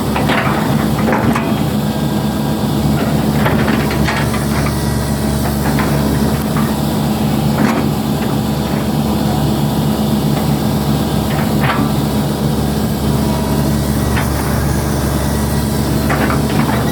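Hitachi hydraulic excavator's diesel engine running steadily under working load, with short clanks every few seconds as the machine digs.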